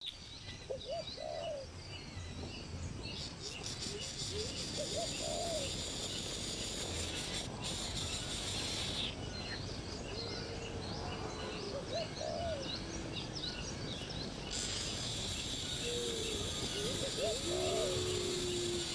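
Birds calling: short, hooked low calls repeated every few seconds, with many quick higher chirps, over a steady high insect drone.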